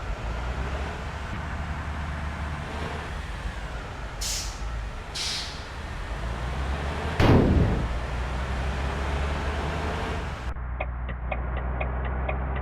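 Bus engine running steadily. Two short air-brake hisses come about four and five seconds in, then a loud burst about seven seconds in. A run of quick, regular ticks follows near the end.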